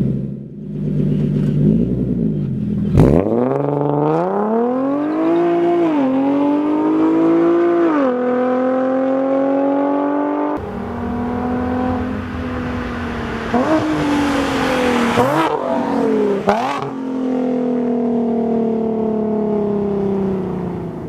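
Nissan 370Z's 3.7-litre V6 exhaust accelerating hard. The pitch climbs and drops at two gear changes, then holds a steady drone. After an abrupt change partway through there are quick revs with a burst of hiss, then the engine settles and slowly falls in pitch.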